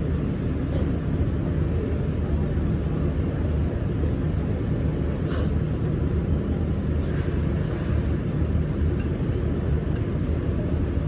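Steady low rumble of background noise, like a running fan or ventilation, with one sharp click about halfway through and a few faint ticks later.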